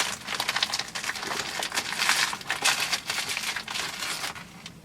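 Plastic food packaging crinkling and rustling in irregular bursts as chicken breakfast sausages are taken out and put into the frying pan.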